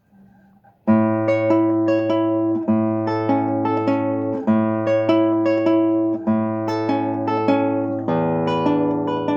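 Acoustic guitar playing a plucked instrumental piece: a repeating pattern of ringing melody notes over held bass notes, starting about a second in.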